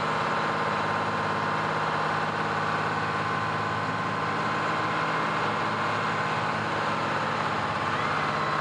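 Fire truck engine running steadily at a low, even idle.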